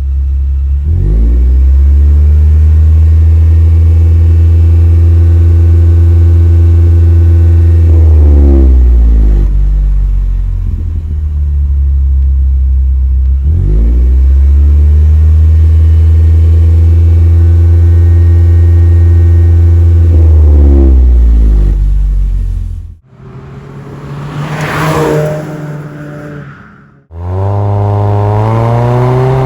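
Exhaust note of a Toyota Prius (60 series, MXWH60) fitted with a Rosso Modello DUALIST EX-FOUR quad-exit muffler. The 2.0-litre four-cylinder hybrid engine is held at steady raised revs twice, about seven seconds each time, with the pitch rising into each hold and falling away after it. After a quieter stretch with a brief rising-and-falling sound, the engine runs up again near the end.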